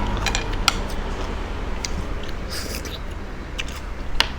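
Eating sounds: several sharp clicks and crunches with short wet, hissy smacks as spicy seafood salad is chewed and shells are picked at.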